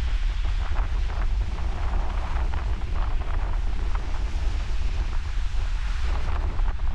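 Strong wind buffeting the microphone as a steady low rumble, over the hiss and splash of ocean surf breaking and washing.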